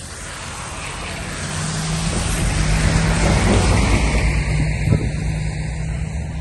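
A road vehicle passing by: engine hum and tyre noise grow louder to a peak about halfway through, then fade away.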